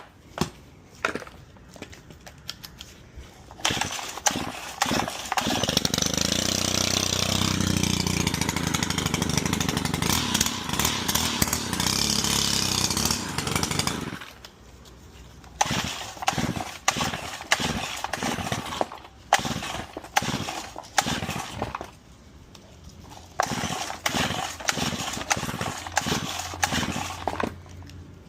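Stihl HT131 pole saw's small 4-MIX engine being pull-started after a carburetor replacement. After a few cord pulls it catches and runs for about ten seconds, then dies. More quick pulls follow, and it runs again for a few seconds near the end. The owner reckons it is short of gas.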